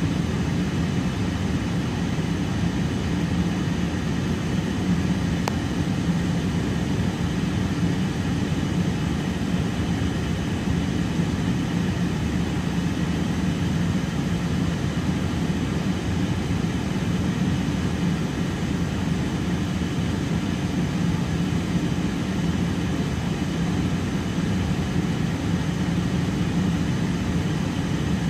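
Double-stack container freight train rolling steadily through a level crossing: an even, deep rumble of wheels on rails, muffled by the car cabin.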